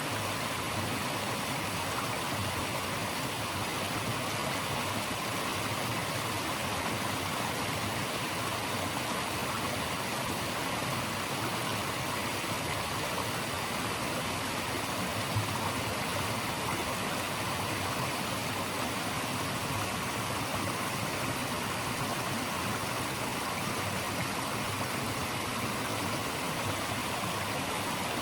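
Steady, unbroken rush of running water, an even hiss from low to high pitches that holds the same level throughout.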